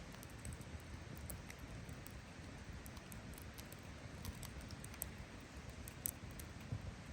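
Wood campfire crackling, with scattered sharp pops, the loudest about six seconds in, over a low steady rumble.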